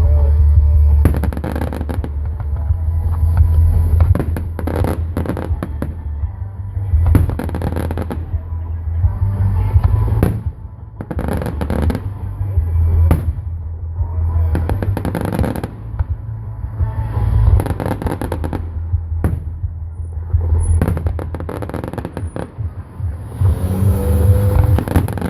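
Fireworks display: aerial shells bursting one after another at irregular intervals, sharp bangs and crackle over a deep low rumble.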